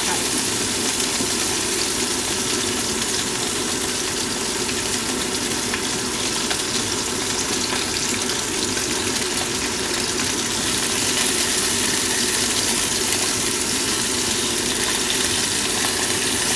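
Sausages sizzling and spitting steadily in a frying pan on the stove.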